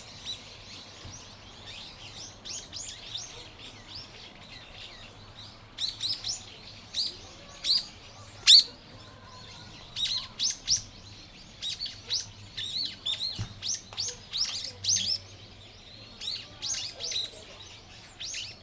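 Small birds chirping: a string of short, sharp, high calls coming in quick clusters, the loudest single chirp about eight and a half seconds in.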